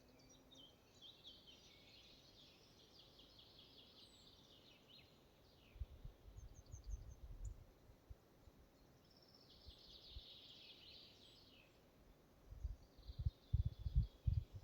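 Forest songbirds singing, faint: three trilling phrases of rapid repeated notes, one at the start, one about two-thirds through and one near the end. Low rumbling bumps, louder than the birds, come about halfway through and again near the end.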